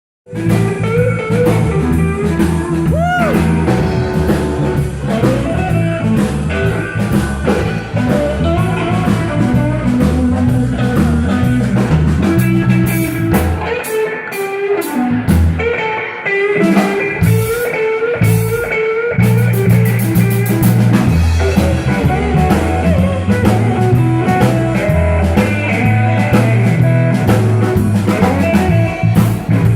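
Blues band playing: a guitar lead with bent notes over bass and drum kit. The bass drops out for a few seconds midway, then comes back in.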